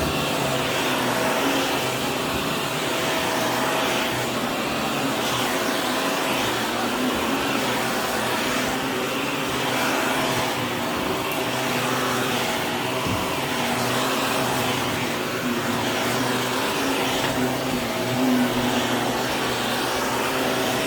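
Vacuum cleaner running steadily, with a motor hum under the rush of air. Its sound swells and fades a little every couple of seconds as it is worked back and forth over the floor.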